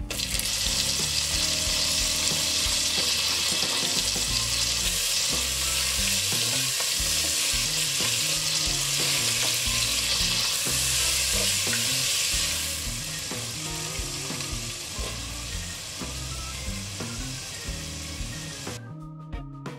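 Chopped ginger sizzling in hot oil with whole spices as it is stirred with a wooden spatula; the sizzle is loudest for the first dozen seconds, then eases.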